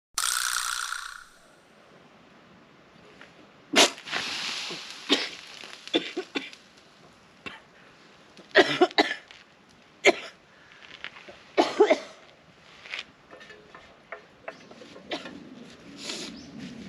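Someone eating a bowl of Okinawa soba noodles: short slurps and mouth noises among sharp clicks, like chopsticks or a spoon against the bowl, at irregular intervals.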